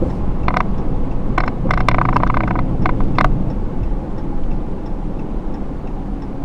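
Steady road and engine rumble of a 2013 Ram 3500 heavy-duty pickup on the move, heard from inside the cab. In the first half there is a quick irregular run of short clicks.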